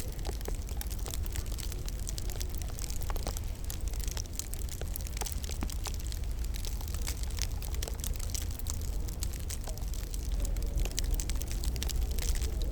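Wood fire in a fireplace crackling, with frequent small sharp pops and snaps scattered irregularly over a steady low rumble.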